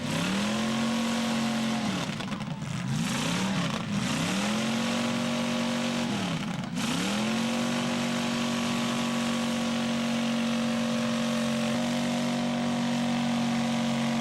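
Full-size demolition derby car engine revving hard: its pitch drops and climbs back up several times, then holds high and steady for the second half.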